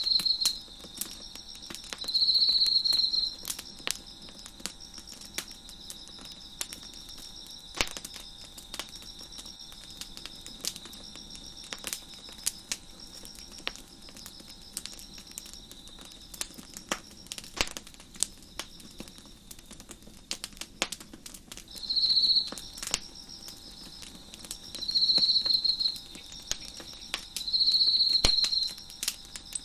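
A wood fire crackling with scattered sharp pops, and crickets chirping. Loud second-long chirping trills come in spells near the start and again in the last third, with fainter chirping carrying on between them.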